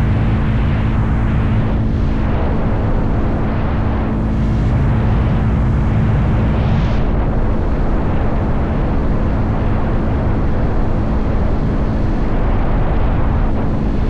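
Motorcycle engine running steadily at cruising speed, its hum held at an even pitch under a heavy, continuous rush of wind noise.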